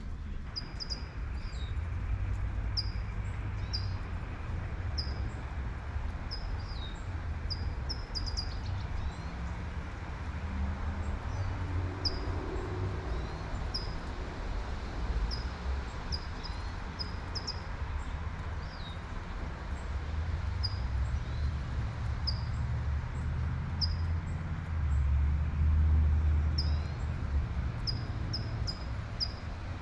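Light rain falling steadily under a low rumble of passing traffic that swells near the end. A bird repeats short high chirps every second or so.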